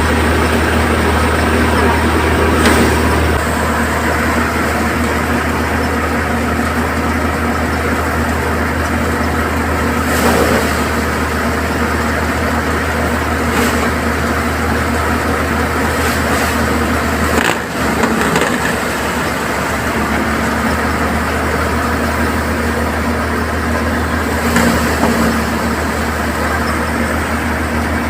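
Tractor engine running steadily to power a paddy thresher, a continuous mechanical drone with a brief break about seventeen seconds in.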